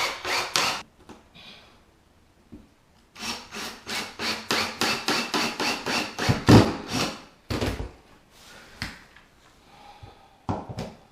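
Handsaw cutting a wooden board with quick back-and-forth strokes, about four a second, in two runs with a pause of about two seconds between them. A few dull wooden thumps follow in the second half.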